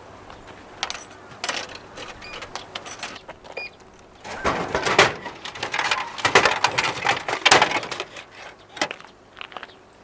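Objects being handled: rustling and clattering with small metallic clinks. It is loudest in a busy stretch from about four to eight seconds in.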